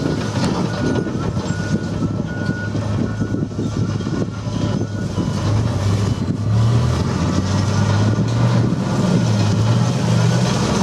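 Type 94 amphibious mine-laying vehicle's engine running under load, its pitch wavering and rising about six seconds in. A few short high beeps sound in the first three seconds.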